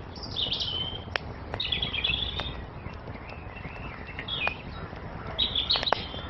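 Small songbirds chirping in four short phrases of quick high notes, over the steady hiss of a wood fire that gives off several sharp crackling pops.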